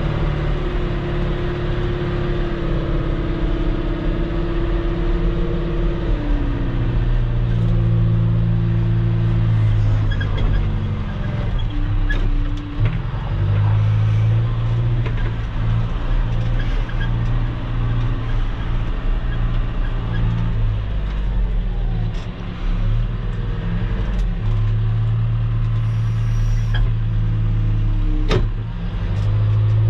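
Engine of an earth-moving machine running under changing load while spreading aggregate base gravel, its pitch rising and falling every few seconds. Scattered clanks and scrapes cut in, loudest one near the end.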